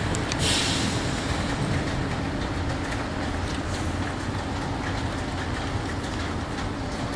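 A train pulling out, its steady low rumble running on, with faint rail ticks and a short burst of hiss about half a second in.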